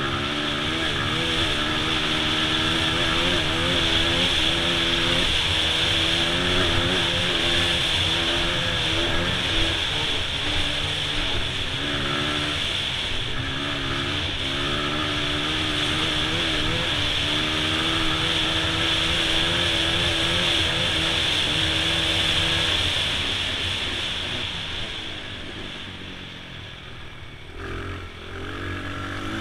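Honda XR100 dirt bike's small single-cylinder four-stroke engine running under way, its revs rising and falling with the throttle. About three-quarters of the way through it eases off to a quieter, lower note, then picks up again near the end.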